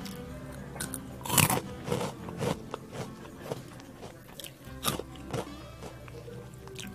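Crunchy snack being bitten and chewed close to the microphone: a run of sharp, irregular crunches, the loudest a little over a second in, with faint background music underneath.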